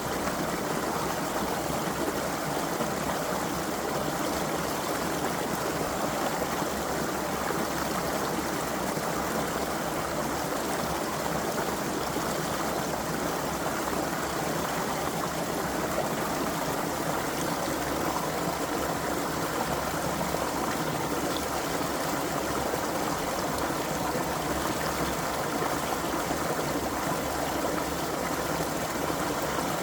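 A shallow creek running over stones, a steady even babble of flowing water.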